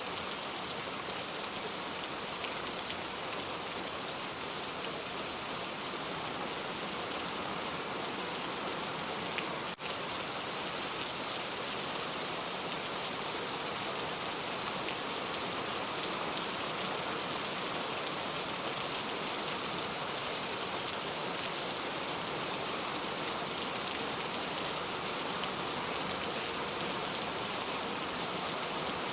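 Steady rain, an even hiss of many drops falling, broken once by a faint click and a brief dip about ten seconds in.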